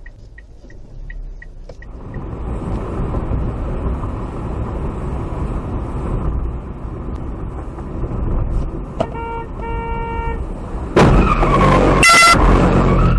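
Steady road noise from a car in traffic, then two short car-horn toots about nine seconds in. About eleven seconds in comes a sudden loud bang, followed by a loud horn blast.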